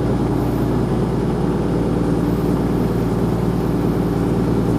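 Underfloor Cummins diesel engines of a CrossCountry Class 220 Voyager diesel multiple unit running steadily at idle, with an even low hum that does not change, as the train waits to depart.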